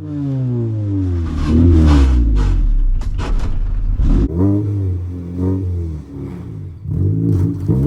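1994 Honda Civic hatchback's engine revving up and down repeatedly as the car, stuck off-road, tries to pull free, with a burst of knocks and clatter about two to four seconds in.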